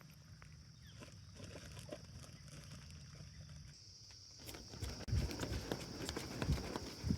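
A steady high-pitched hum under faint scattered clicks, then from about five seconds in a loud run of thumps and crackles close to the microphone.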